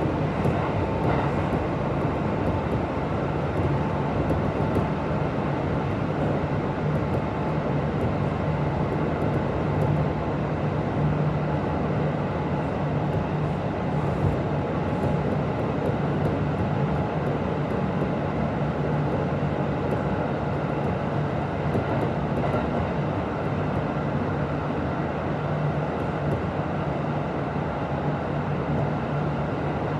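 Kintetsu 1026 series electric train running, heard from inside the car: a steady rumble of wheels on rail with a constant low motor hum that neither rises nor falls.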